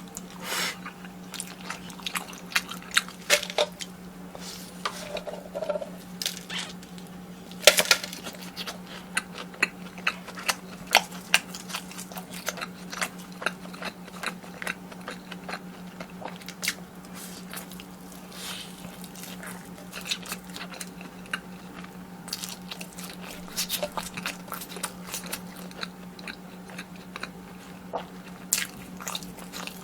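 Close-miked chewing and eating with many sharp, crisp crunches, from a person eating fried cheese sticks and spicy noodles.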